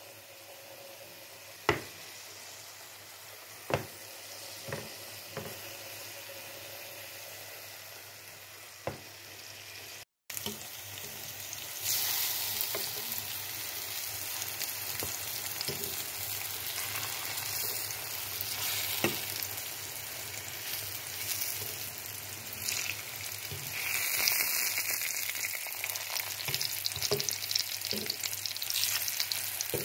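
Button mushrooms sizzling in hot oil in a non-stick frying pan, with a few sharp clicks in the first seconds. The sound drops out briefly about ten seconds in, then comes back as a louder, denser sizzle.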